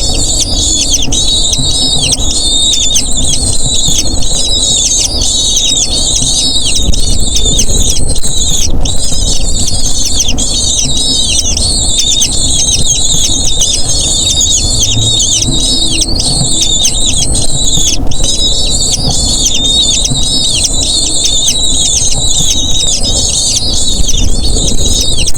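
Eagle chicks calling without pause, a dense chorus of rapid high-pitched falling squeals, over a low steady rumble.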